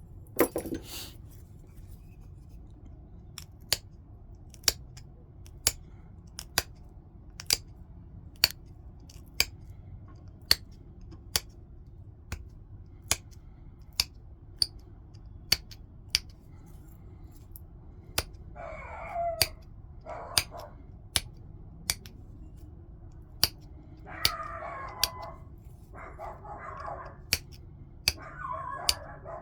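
A stone point being pressure-flaked: sharp clicks of small flakes snapping off its edge, about one a second, with a louder crack at the start. In the second half a dog whines several times.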